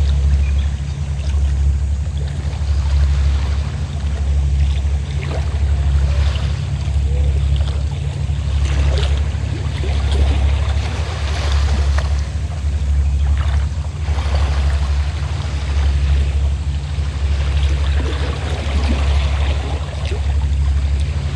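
A fishing boat's engine running with a steady low drone, its level swelling and falling about every second and a half, with sea water splashing and washing over it.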